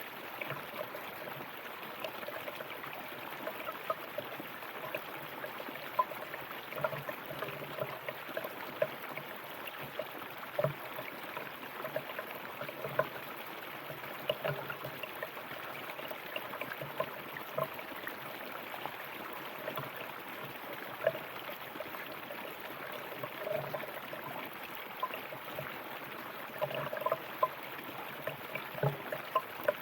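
River water running steadily over rocks, a continuous rush with many small gurgles and splashes, a few louder splashes among them.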